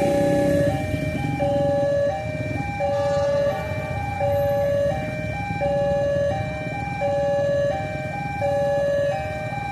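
Electronic level-crossing warning alarm sounding a repeating two-tone chime, the pattern coming round about every second and a half, which signals that a train is approaching. A low rumble runs underneath.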